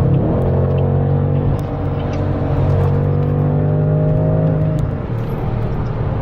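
Car engine accelerating under load, its pitch rising, dropping briefly about a second and a half in as it shifts up, then pulling steadily before easing off about five seconds in, over road noise.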